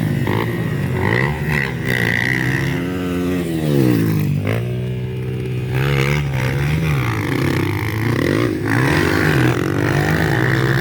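Motocross dirt bikes running on the track, their engines revving up and easing off over and over as they ride, with more than one bike heard at once.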